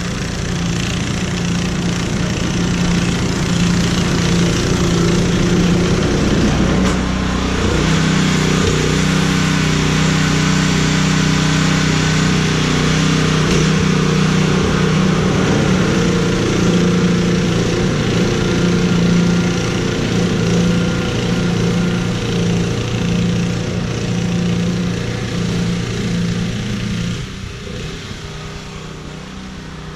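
An engine running steadily; its note shifts about eight seconds in and drops away near the end.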